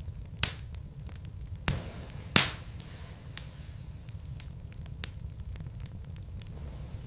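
Wood fire crackling in a fireplace: scattered small ticks and three sharp pops from the burning logs, the loudest about two and a half seconds in, over a steady low rumble.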